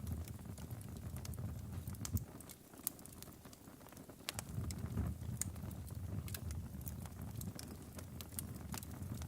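Wood fire burning in a fireplace: logs crackling with irregular sharp pops over a low rumble of flame. The rumble fades for a second or two about two and a half seconds in, then comes back.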